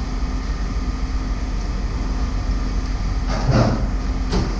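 Steady low rumble of an idling vehicle engine, with a brief clatter about three and a half seconds in and a short click just after.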